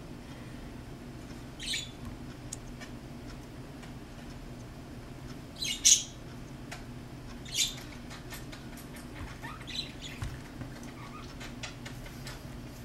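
Birds giving a few short squawking chirps, the loudest about six seconds in, over a steady low hum.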